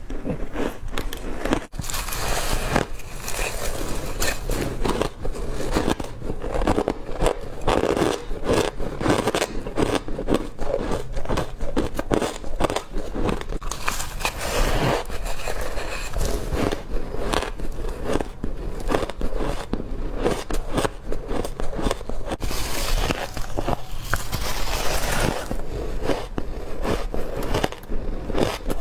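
A person biting and chewing hard crushed ice: a dense, unbroken run of crisp crunching and crackling, louder in a few stretches.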